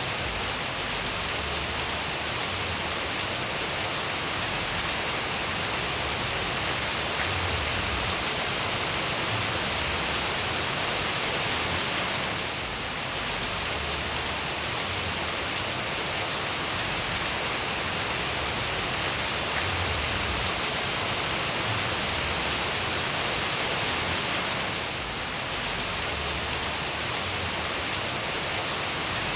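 Steady, dense rain falling, an even hiss with no distinct drops or thunderclaps standing out. The level dips briefly twice, about thirteen and twenty-five seconds in.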